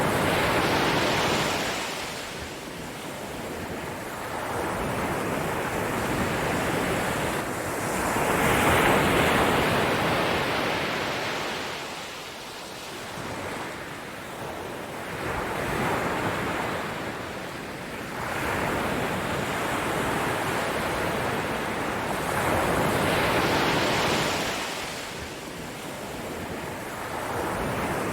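Ocean surf: waves rolling in and washing out, the rushing noise swelling and fading several times, a few seconds apart.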